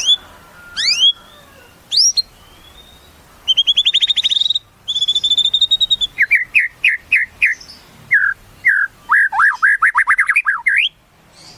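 White-rumped shama (murai batu) singing a varied song. Rising whistled notes lead into two fast trills, then a string of repeated short notes and a rapid chattering run that ends on an upward whistle.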